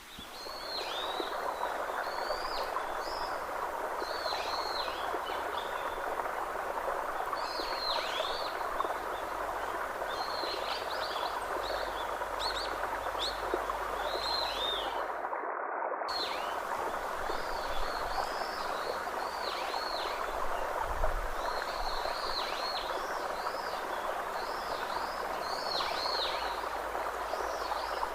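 Birds calling over and over with short chirps that dip down in pitch and back up, over a steady rushing background noise.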